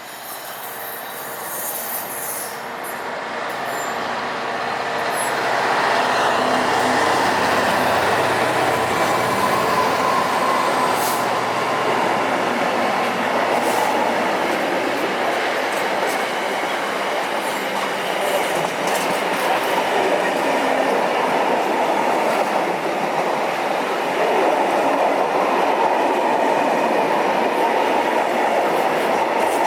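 A train running past at close range: its rumble and wheel noise build over the first six seconds, then stay loud and steady as it passes.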